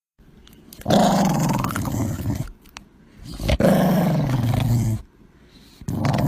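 An animal growling in three long, rough growls, each lasting a second or more and sinking slightly in pitch.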